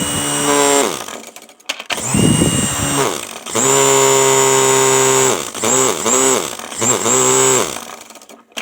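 Small electric motor of a toy RC helicopter, overdriven at 12 V from eight AA cells in series, whining at high speed as it spins the rotor. It is switched on and off several times: a short run that winds down about a second in, a longer steady run in the middle, then two short bursts near the end, each falling in pitch as it spins down.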